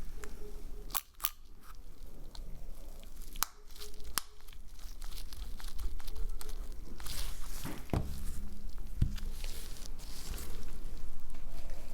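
Close-up handling noise from phone disassembly work: crinkling and tearing sounds, with a few sharp clicks about a second in and around three and a half to four seconds, and a couple of duller knocks near the end.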